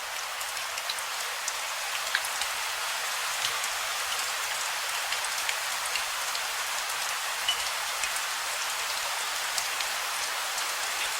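Steady rain falling, an even hiss scattered with many small, separate drop impacts.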